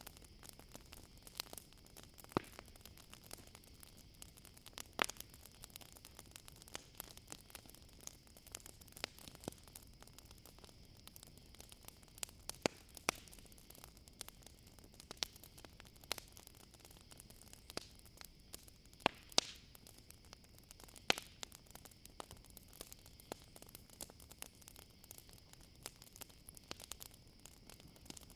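Campfire crackling, with irregular sharp pops from the burning wood, the loudest a few seconds apart. Under it runs a steady high insect chirring, as of crickets on a summer night.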